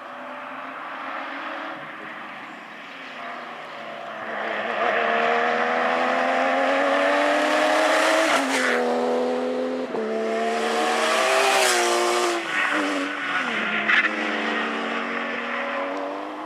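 Porsche rally car's flat-six engine under hard acceleration, its pitch climbing and then dropping sharply at gear changes about eight and ten seconds in, falling again as it slows around twelve seconds. A single sharp crack about fourteen seconds in.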